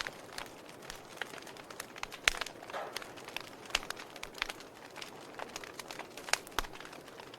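Wood fire burning in a fireplace: logs crackling with irregular sharp pops over a soft hiss, the loudest pops about two seconds in and again near the end.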